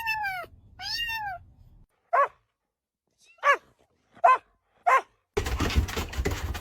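A cat meowing: two drawn-out, arching meows, then four short falling meows spaced about a second apart. Near the end a loud rough noise takes over.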